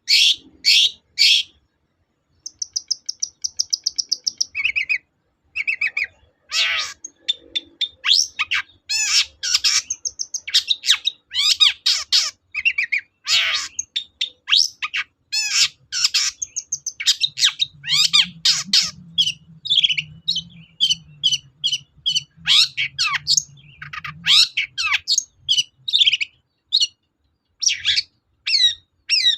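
Long-tailed shrike (cendet) singing a fast, varied song of sharp high chirps and harsh notes, with a rapid even trill a few seconds in.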